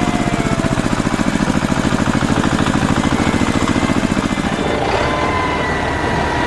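Tractor engine idling with a rapid, even chug; about three-quarters through the chugging gives way to a steadier run with a thin whine over it.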